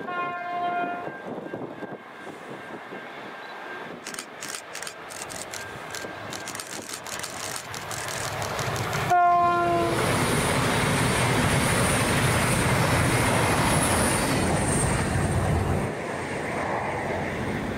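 V/Line VLocity diesel multiple unit sounding a short horn blast at the start and a louder one about nine seconds in as it closes on the camera. Rapid clicking from the rails builds as it approaches, then it passes with a heavy rumble and a high whine. The sound drops away about two seconds before the end.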